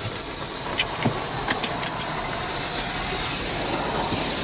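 Spot-free rinse water spraying over the car in an automatic car wash, heard from inside the cabin as a steady hiss with a few sharp ticks of water hitting the body and glass.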